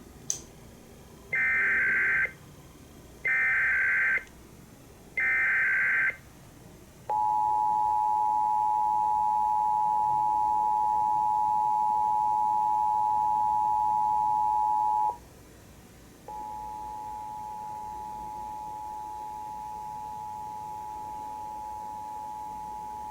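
Emergency Alert System signal: a click, then three one-second bursts of SAME header data tones, then the two-tone EAS attention signal held for about eight seconds. After a one-second gap the two-tone attention signal starts again, quieter, and continues. It opens a required monthly test of the alert system.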